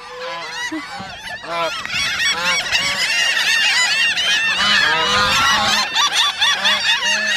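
A large flock of birds calling over one another, many short rising-and-falling calls overlapping into a constant clamour that swells after about two seconds. The birds are crowding people for thrown bread.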